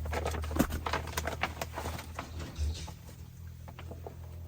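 Papers and small loose items rustling and clicking as they are handled and sorted out of the cab's drawers. The handling noise is busiest for the first three seconds and thins out after, with a steady low hum underneath.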